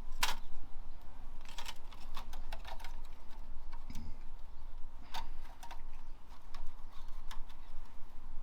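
Irregular light clicks and taps of hand tools and small metal engine parts being handled during engine assembly, over a steady low hum.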